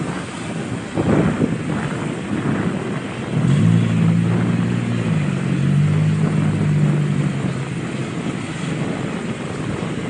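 Motorcycle engine running under way, its note rising a few seconds in and then dropping a step, with wind rushing over the microphone.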